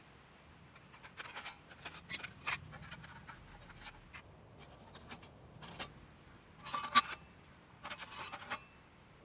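Irregular scrapes, rustles and clicks of things being handled, coming in short clusters with pauses between them; the sharpest click is about seven seconds in.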